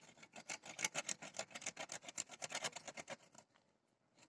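Hand saw cutting through a tree branch in quick, short rasping strokes, stopping near the end.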